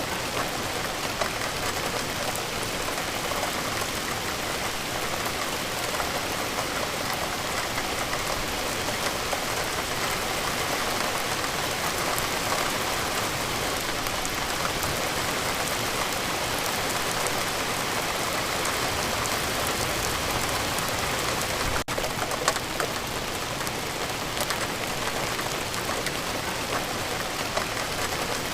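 Steady rain falling, a continuous hiss with many fine drop patters, with a split-second break about three-quarters of the way through.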